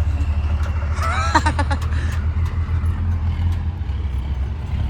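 Truck engine running with a deep, steady rumble. About a second in, a voice briefly calls out, rising in pitch.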